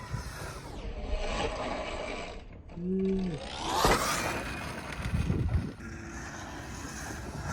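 Sur-Ron electric dirt bike riding on dirt: drivetrain chain rattle and tyre noise with no engine sound, and a brief whine that rises and falls about three seconds in.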